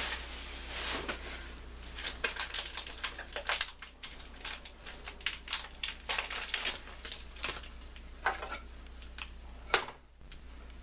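A block of cheddar cheese scraped over a hand grater in quick, uneven strokes.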